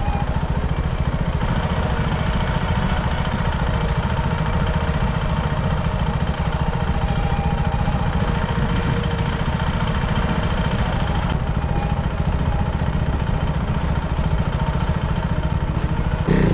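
Husqvarna Svartpilen 401's single-cylinder engine running steadily through a LeoVince GP One slip-on exhaust, with no revving.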